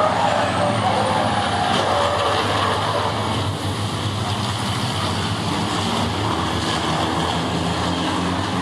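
Racing trucks' diesel engines running steadily on the circuit, a loud continuous engine drone with no breaks.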